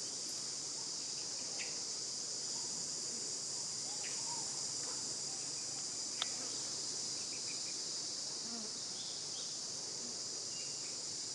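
Steady high-pitched drone of an insect chorus, with a single sharp click about six seconds in and a few faint chirps.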